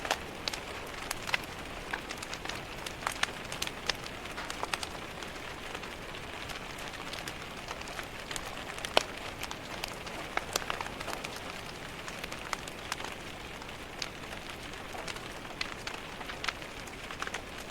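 Rain on a window pane mixed with a crackling wood fire: a steady hiss of rain with many irregular sharp pops and taps scattered through it.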